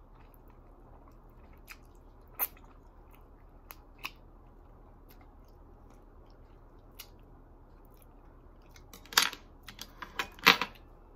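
A person eating black bean noodles close to the microphone: a few faint, scattered mouth clicks and smacks, then a cluster of louder wet chewing and smacking noises near the end.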